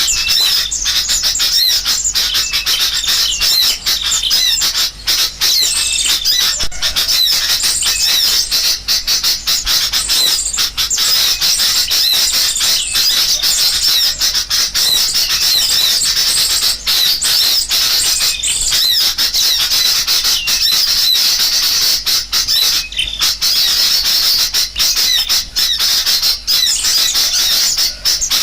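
Bird-lure recording of a dense, continuous chorus of agitated sooty-headed bulbuls mixed with small songbirds: rapid high chips, twitters and squawks overlapping without a break.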